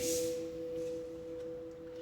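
A steady ringing drone of two held pitches, one higher and one lower, slowly fading. It is a background meditation tone under the talk.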